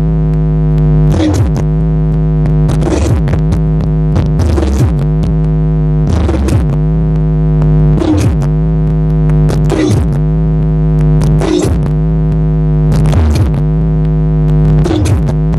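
Loud electronic bass-test music played through a large sound system: a synthesizer holds a deep, steady bass note with held tones above it, broken by a pitch sweep about every 1.7 seconds.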